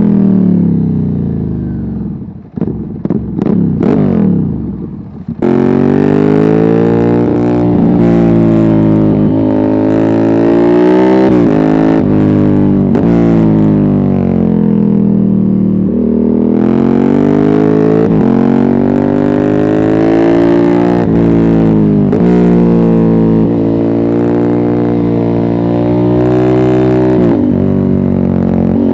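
Ducati Hypermotard 796's air-cooled L-twin through a decat Termignoni exhaust without a dB killer. The pitch falls off as it decelerates, goes quieter and uneven for a few seconds, then it accelerates hard again and again, the pitch climbing and dropping sharply at each gear change.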